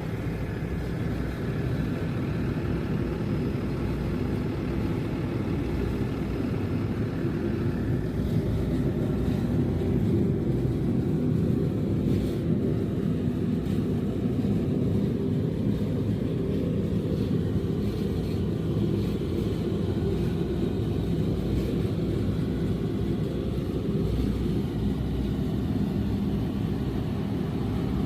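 Tack truck's engine running with a steady low rumble.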